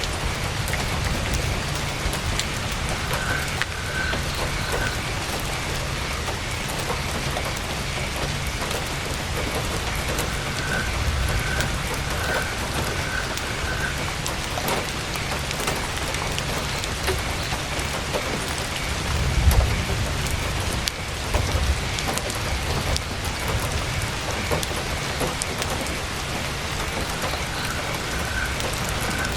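Heavy rain drumming steadily on a tent's canvas, with scattered sharp crackles and drop taps from a campfire and the rain. A brief low rumble comes about two-thirds through, and a few faint short runs of repeated high notes sit under the rain.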